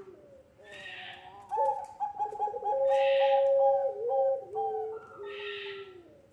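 Puter pelung doves giving long, drawn-out coos. The held notes step down in pitch and overlap one another, with a breathy rush at the start of each call.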